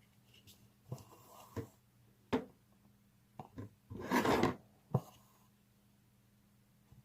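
Hand embroidery: a needle clicks and pokes through taut embroidery fabric several times, and thread is drawn through with a short scraping rush about four seconds in.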